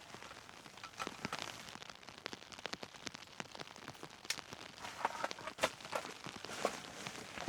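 Raindrops striking a tent in irregular sharp taps over a faint hiss, the taps coming louder in the second half.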